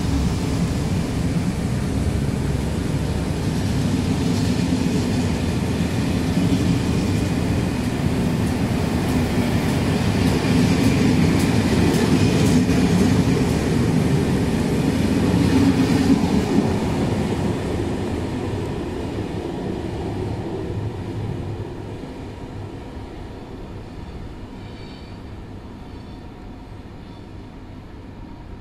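A TER train of Corail passenger coaches rolling along the rails past the platform in a steady loud rumble. The sound then dies away gradually over the last ten seconds as the coaches move off.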